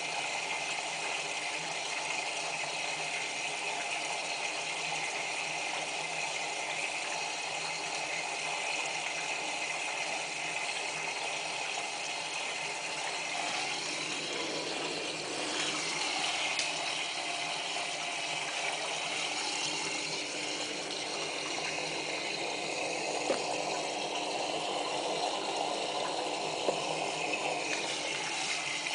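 Whirlpool AWM4066 washing machine in its final rinse, water running into the drum as it fills with a bulky, absorbent blanket, with mechanical clicks from the machine. The sound shifts about halfway through, and there are a few sharp clicks in the second half.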